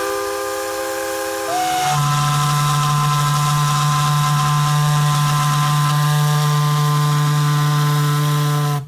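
Steam whistle on a Minneapolis steam traction engine, blown by pulling its cord: a steady chord of several tones that drops to a deeper, louder tone about two seconds in, holds for several seconds, then cuts off suddenly near the end.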